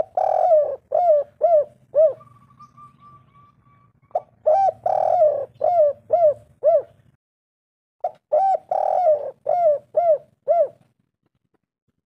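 Spotted dove cooing: three phrases a few seconds apart, each a short coo, a longer coo, then several quicker short coos. A faint low hum runs underneath.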